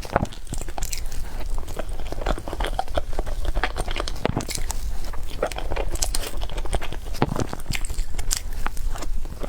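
Close-miked chewing of cake: irregular wet mouth clicks and smacks as it is bitten and chewed.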